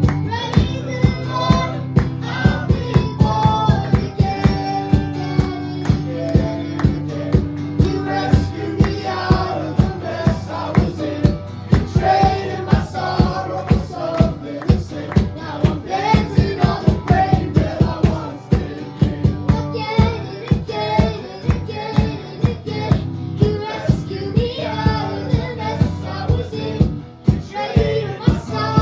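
Worship song played by a band: a steady drum beat of about two hits a second over held bass notes, with singing.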